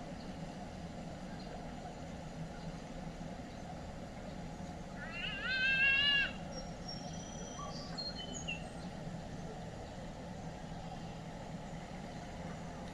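A bird gives a quick series of rising whistled notes lasting about a second, about five seconds in, followed by a few faint high chirps. Underneath is a steady low hum of distant vehicle traffic.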